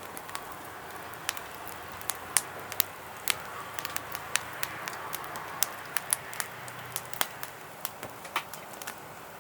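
Wood fire crackling: irregular sharp pops over a steady low hiss.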